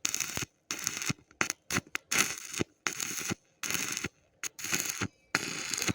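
Stick (arc) welding: the electrode's arc crackling in a run of short bursts with brief gaps between them.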